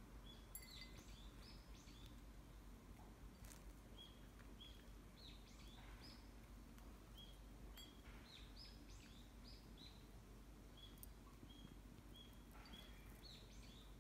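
Faint, short, high chirps from Japanese tit fledglings, repeated at irregular intervals, some flat peeps and some quick rising or falling notes, over a steady low hum.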